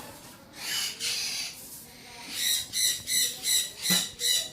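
A parrot calling: a couple of raspy, hissy sounds, then a run of about six short, sharp calls at roughly three a second.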